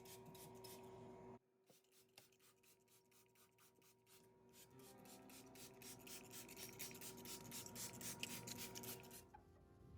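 Faint, rapid rubbing or scrubbing strokes on a surface, as in wiping down a fridge. They break off about a second and a half in, then resume and grow louder, with soft background music underneath.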